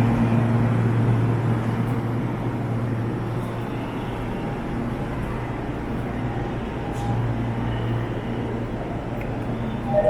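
Train station ambience: a steady low hum and rumble of rail traffic, easing for a moment about halfway through.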